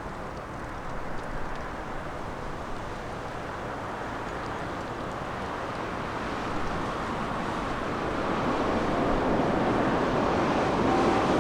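Boeing 777 jet engines on landing approach, a broad rushing roar that grows steadily louder as the airliner nears, with strong wind buffeting the microphone.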